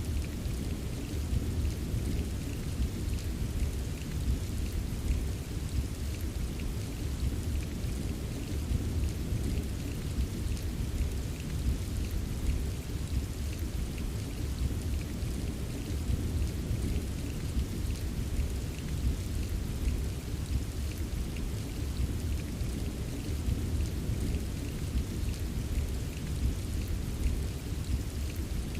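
Steady rain ambience, most of it a deep, even low rumble, with faint ticks of single drops above it.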